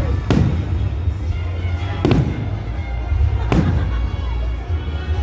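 Fireworks shells bursting overhead: three sharp bangs about a second and a half apart, each followed by a low rumble, over background music.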